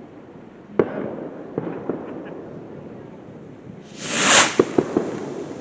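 Fireworks going off: a sharp bang about a second in and a few small pops, then near the end a loud hissing rush followed by a quick run of sharp crackling pops.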